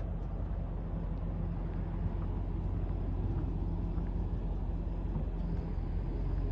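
Steady low hum of a vehicle engine running close by, over outdoor background noise.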